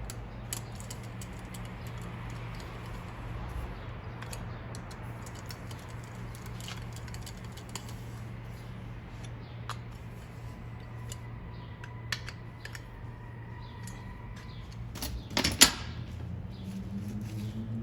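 Hand tools working on an engine's valvetrain: scattered small metallic clicks and taps over a steady background hum, with one louder knock about fifteen seconds in.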